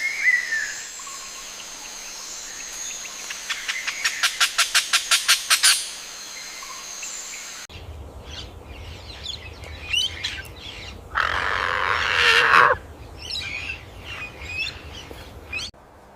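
Bird calls in two separate clips. First comes a fast run of about a dozen sharp, clicking notes. After a cut come scattered chirps and a harsh, raspy call lasting over a second.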